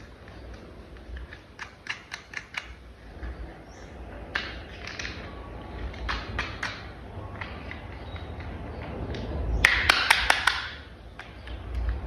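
Plastic toy parts clicking and clattering as they are handled, with a quick run of clicks about two seconds in and a louder cluster of clatter near the end.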